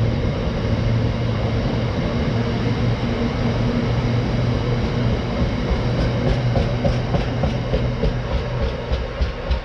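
Freight train passing at speed: a steady low rumble and hum, with the wheels clacking over the rail joints in a rhythm that becomes distinct about two-thirds of the way through.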